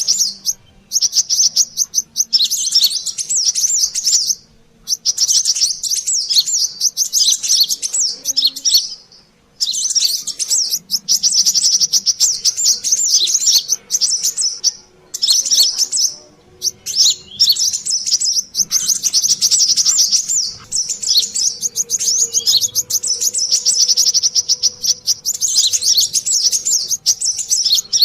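Brown-throated sunbirds (kolibri kelapa) chattering in a busy lure call: rapid high twittering in phrases a few seconds long, broken by brief pauses.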